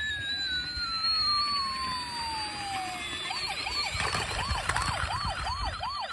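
A siren: first a single whistle-like tone that slides slowly downward for about three seconds, then a fast warble rising and falling about three times a second.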